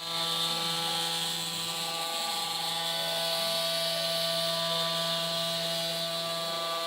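Nova CNC Pró 1300+ CNC router running, its motors giving a steady whine of several held tones with a hiss above. Fainter tones slide up and down as the axes move.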